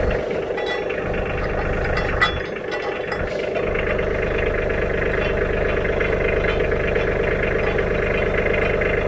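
Tractor engine running steadily, with a few metallic clicks and rattles in the first few seconds.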